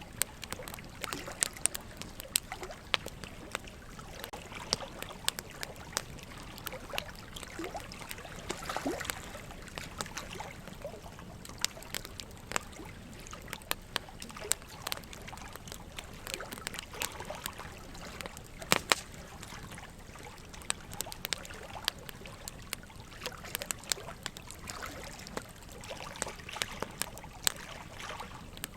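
Wood fire crackling with frequent sharp pops, one louder pop about two-thirds of the way through, over a steady trickle of running water.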